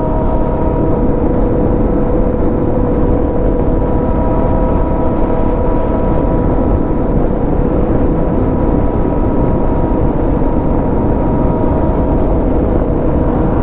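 A motorcycle engine running at a steady, unchanging pitch under heavy wind rush on the rider's microphone.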